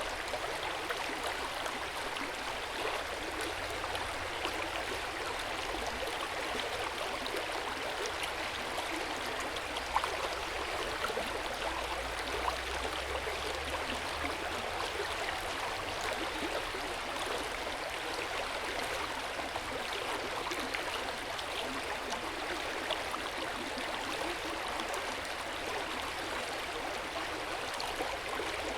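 Hot-spring water flowing and splashing steadily into an outdoor bath, with a few small drips standing out now and then, the clearest about ten seconds in.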